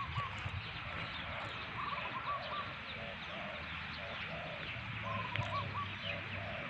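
Several birds calling over one another: short, repeated arching notes and thin chirps, over a steady low hum.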